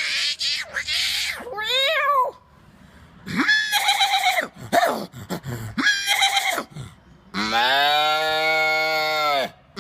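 A man imitating animal calls with his voice: a run of short, wavering calls, then a long, steady low call like a cow's moo from about three-quarters of the way in.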